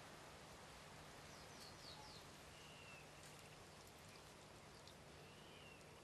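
Near silence: steady faint hiss, with faint high bird chirps about two seconds in and a few short whistles later.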